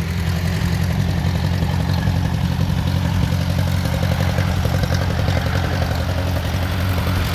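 A homebuilt tractor's engine idling steadily.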